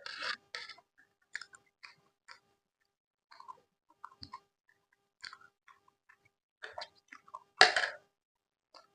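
Close-miked chewing and mouth sounds of someone eating, coming in short, irregular bursts with pauses between them, the loudest a little under a second long about three-quarters of the way through.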